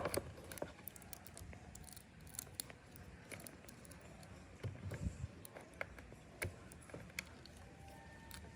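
Scattered small clicks and taps of parts and tools being handled during a repair, with one sharp click at the start and a few low knocks about five seconds in.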